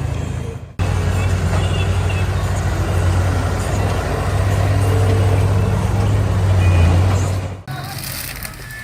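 Heavy construction machine's engine running, a steady low rumble that swells a little toward the end, broken by abrupt cuts about a second in and near the end.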